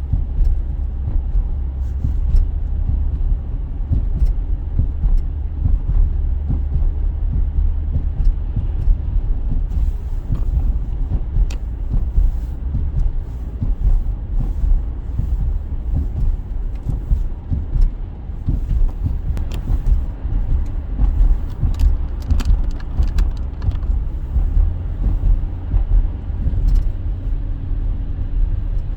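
Car in motion heard from inside, driving slowly: a steady low rumble of engine and road noise, with scattered faint clicks and ticks.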